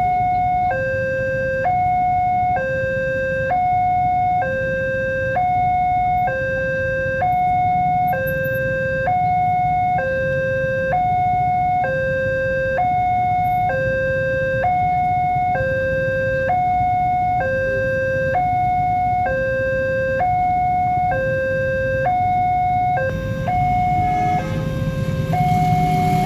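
Level-crossing electronic warning alarm sounding a two-tone signal, a higher and a lower tone alternating evenly, each held a little under a second, warning that a train is approaching. Near the end the pattern breaks up and a low rumble builds.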